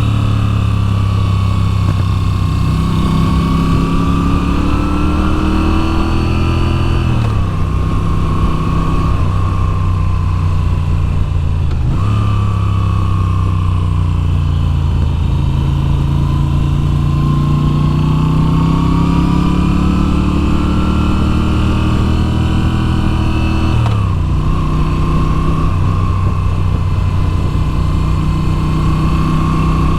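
Moto Guzzi V7's air-cooled transverse V-twin running under way on a twisty road. The engine note climbs slowly in pitch and drops sharply three times, about a quarter of the way in, after about twelve seconds and near the end, as the rider shifts gear or rolls off the throttle.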